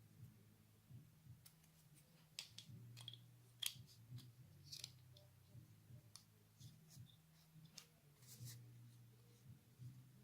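Faint, scattered clicks and light taps of small diecast and plastic toy parts being handled and fitted together, over a low steady hum.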